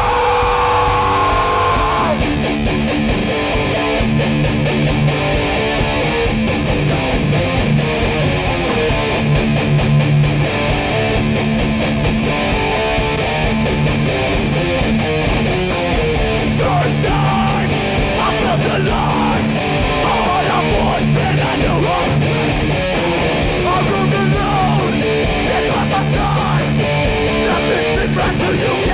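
Hardcore punk band playing live at full volume: distorted electric guitars, bass and drums driving a heavy riff, without vocals.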